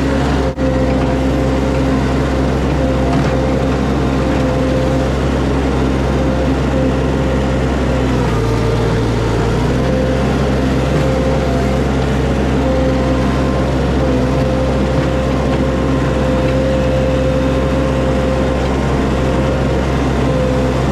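Mini skid steer's engine running steadily under light work, its pitch dipping briefly about eight seconds in and slightly again around fourteen seconds.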